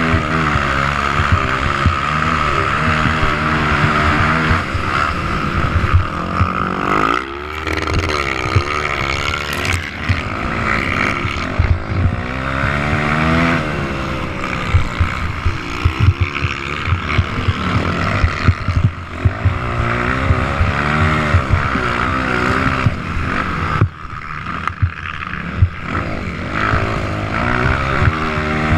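Several motocross dirt bikes racing around the track, their engines revving up and falling back over and over as they accelerate, shift and pass, often more than one at once.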